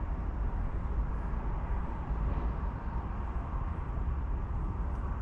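Steady low rumbling noise with a hiss above it, even throughout with no distinct knocks or clicks.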